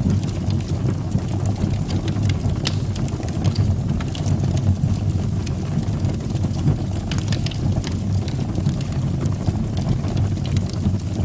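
Wood fire burning in a fireplace: a steady low rumble from the flames with scattered sharp crackles and pops from the burning wood.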